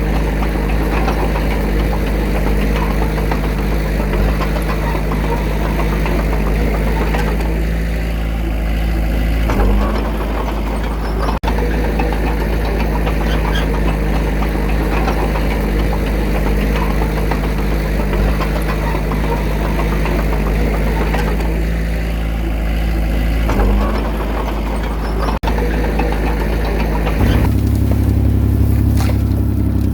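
Diesel engine of a small Komatsu D21A bulldozer running steadily as it works, its note shifting briefly a couple of times. Near the end the sound changes abruptly to a steadier, deeper engine note.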